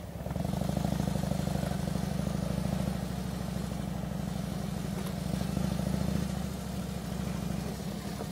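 Harley-Davidson touring motorcycle's air-cooled V-twin engine running at low revs with a steady pulsing beat. It gets a little louder just after the start.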